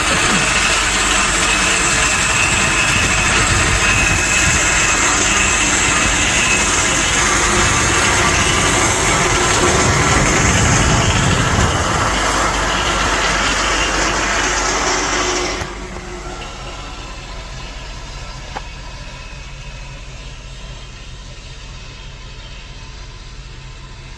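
Motor vehicle engine and road noise, loud and even at first, then dropping suddenly about two-thirds of the way in to a quieter, steady engine hum.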